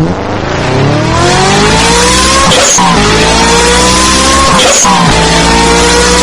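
High-revving engine accelerating hard through the gears: the pitch climbs, drops at an upshift about two and a half seconds in, climbs again, and drops at a second upshift a couple of seconds later.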